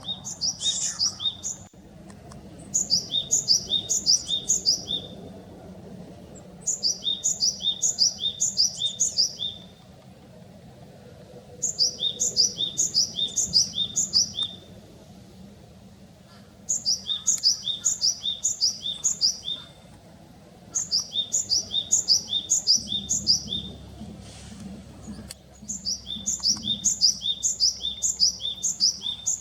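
Japanese tit singing its repeated two-note 'tsu-pi tsu-pi' song: about seven strophes, each a quick run of paired high-then-lower notes, with pauses of about two seconds between them.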